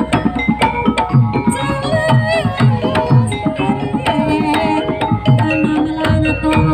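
Live Javanese folk-dance accompaniment: a steady, busy rhythm of hand-drum strokes under repeated struck pitched tones from tuned percussion.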